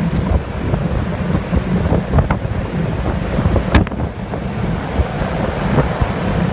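The 1968 Oldsmobile 442's 400-cubic-inch V8 running under way, heard from inside the cabin. Heavy wind rushes over the microphone throughout, with a few light clicks and knocks.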